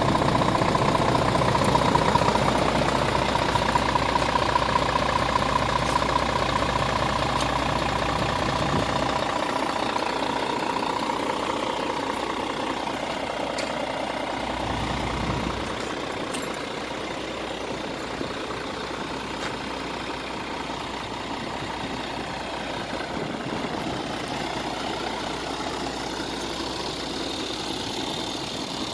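Scania R450 tractor unit's 13-litre inline-six diesel idling steadily. Its deep low hum is strong for the first nine seconds or so, drops away, returns briefly around fifteen seconds, then leaves a softer, higher running sound.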